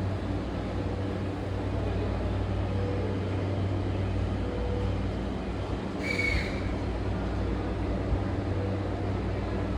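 Steady low hum heard inside a JR E235-series electric train motor car, with a short high beep about six seconds in.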